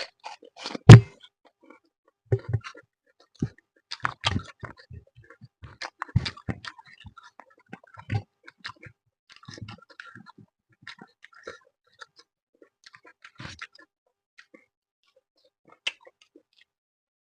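Close-up eating sounds of someone eating fish with rice: irregular chewing, lip smacks and small clicks. The loudest is a sharp knock about a second in.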